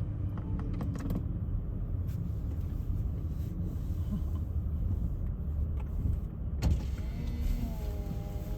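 Low rumble of a car rolling slowly, heard inside the cabin. Near the end a click, then the steady whine of the power window motor as the driver's window goes down.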